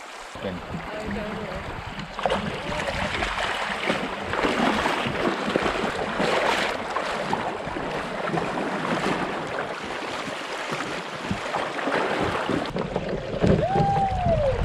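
Water rushing and splashing around a canoe moving on a river, with scattered splashes. Near the end, a short tone rises and then falls.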